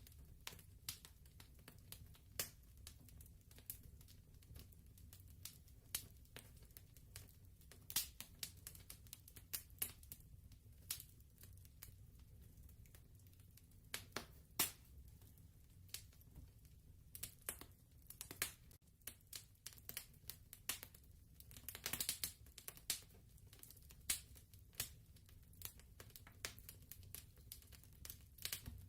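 Wood fire crackling softly in a fireplace: irregular pops and snaps, some louder than others, over a steady low rumble.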